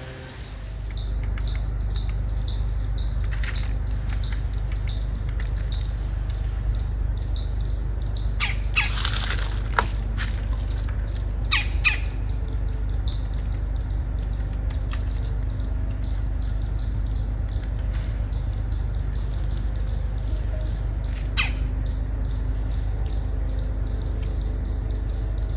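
Bird squawks and calls, loudest about 9 and 12 seconds in, among many short sharp clicks over a steady low rumble.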